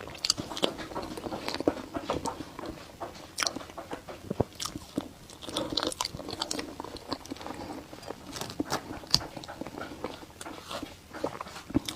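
Close-miked eating sounds: a person biting and chewing braised meat, with many short, irregular wet mouth clicks and smacks.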